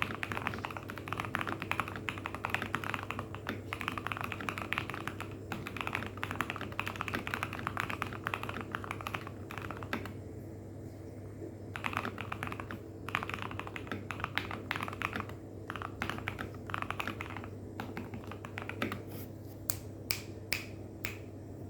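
Keychron C2 mechanical keyboard with Gateron Brown tactile switches, modded with case foam, tape mod, lubed stabilizers and thick PBT keycaps, being typed on: fast continuous typing that breaks off about ten seconds in, then more bursts of keystrokes and a few separate single key presses near the end. Recorded through a smartphone microphone, with a steady low hum underneath.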